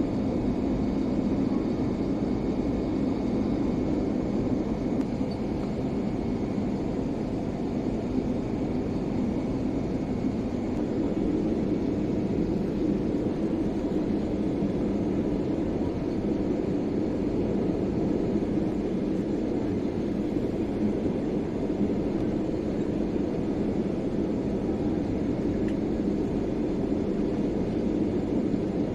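Steady rumble of an airliner's engines and rushing air heard inside the passenger cabin on the approach to landing, even throughout with no separate knocks or tones.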